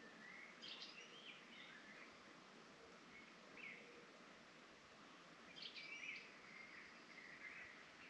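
A songbird singing two short warbling phrases, with a single brief note between them. It is faint over a steady background hiss.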